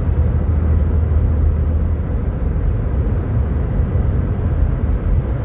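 2008 Nissan Quest minivan driving, heard from inside the cabin: a steady low rumble of road and engine noise. It has a new front hub assembly and CV axle fitted, and the bearing noise and vibration are gone.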